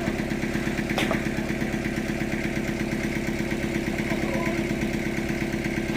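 An engine idling steadily, with one sharp click about a second in.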